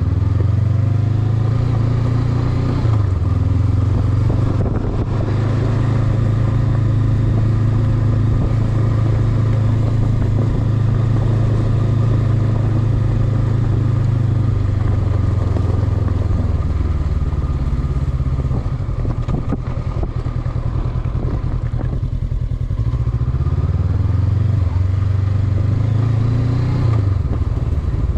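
Honda CB500X parallel-twin engine running at a steady throttle while riding, easing off for a few seconds past the middle, then pulling again with rising pitch near the end.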